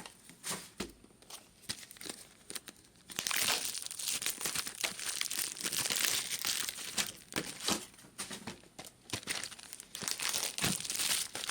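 Foil trading-card pack wrappers crinkling and tearing as packs are ripped open, starting about three seconds in after a few light clicks, with short lulls near the end.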